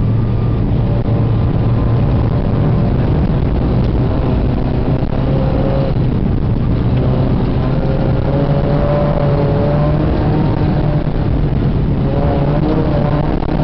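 Ford Escort RS 2000's 16-valve four-cylinder engine heard from inside the cabin, pulling the car along at fairly steady revs that rise and fall slightly, over a steady rush of road noise.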